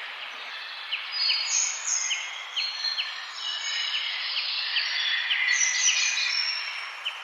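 Several songbirds chirping and whistling together over a steady background hiss, with one bird repeating a short quick chirp over and over.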